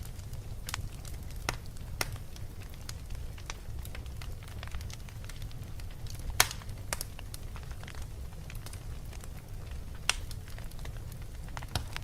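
Fire burning in a fireplace: a steady low rumble of flames with scattered crackles and pops. The loudest pop comes about halfway through and another sharp one comes near the end.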